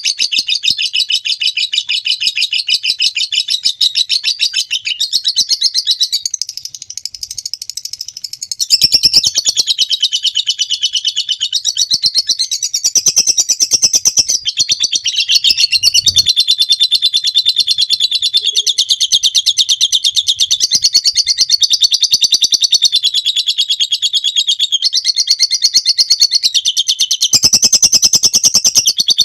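Lovebird singing a long ngekek: an unbroken, high, rapid chattering trill that runs on with hardly a pause, dropping quieter for a couple of seconds about a quarter of the way in.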